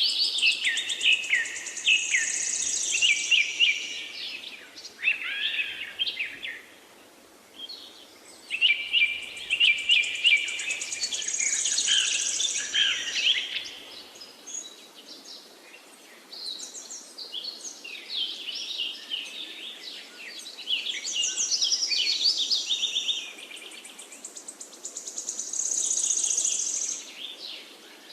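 Songbirds singing in bouts of fast, warbling phrases mixed with high buzzy trills, with short lulls between bouts.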